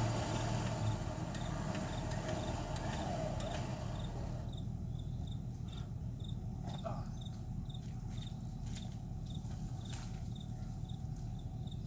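Recovery truck's winch running as it takes in the wire on a stuck vehicle, stopping about four seconds in. Crickets chirp steadily throughout, plain once the winch stops.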